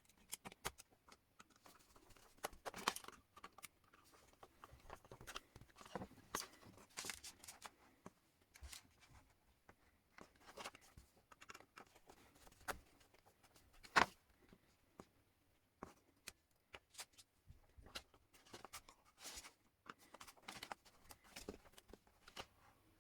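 Faint, scattered clicks, scrapes and rustles of hands working on electrical wiring: a three-core cable being handled and its wires fitted into switch terminals. One sharper click stands out about 14 seconds in.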